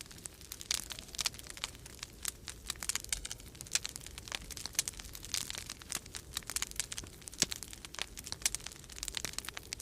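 Wood fire crackling in a fireplace: many sharp irregular pops and snaps, several a second, over a steady low rumble of storm wind.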